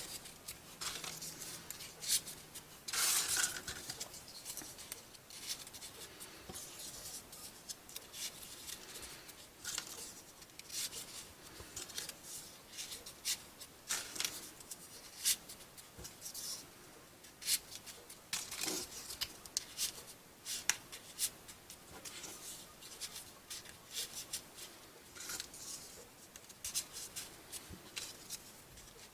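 Folded paper pieces being pushed one after another into a modular 3D origami model: irregular short paper scrapes, rustles and clicks.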